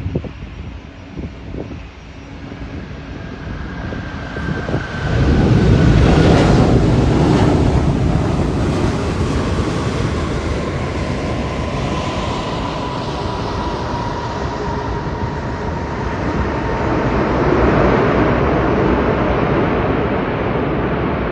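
Jet engine roar of a landing Airbus A380 with four turbofans. It is quieter at first, rises sharply about five seconds in and then stays loud, with a whine that slowly falls in pitch.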